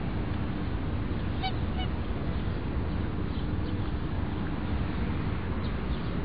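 Two short bird calls about a third of a second apart, over a steady low rumbling noise.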